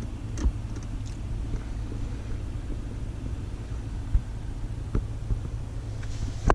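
Low steady rumble of the BMW M550i's twin-turbo V8 idling, heard from inside the cabin, with a few faint clicks as interior controls are touched.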